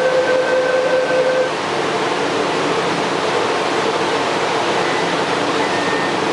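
Cabin noise of a rubber-tyred Bombardier Wenhu-line metro train running, a steady rushing sound. A steady whine sounds over it for the first second and a half, and faint high tones come in near the end; this train is known for abnormal running noises.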